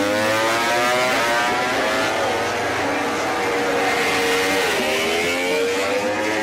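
MotoGP race motorcycles running at high revs, the engine note climbing in pitch. About five seconds in the pitch drops sharply and then climbs again.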